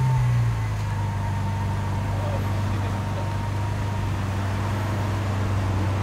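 Lamborghini Aventador's V12 engine idling steadily, heard close to the exhaust, its revs settling down in the first half second.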